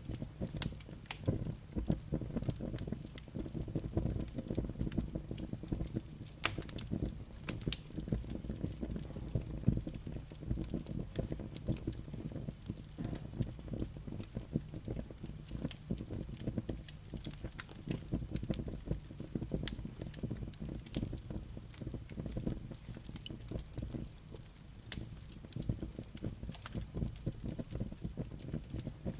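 Wood fire burning in a fireplace: a low steady rumble of flames with frequent sharp crackles and pops from the burning logs and embers.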